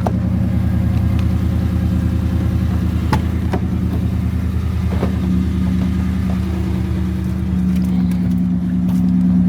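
Pickup truck engine idling steadily shortly after a cold start, with a few light clicks over it.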